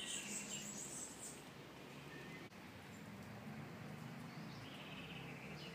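Faint outdoor ambience with small birds chirping in short high-pitched bursts in the first second and again near the end, over a low steady hum.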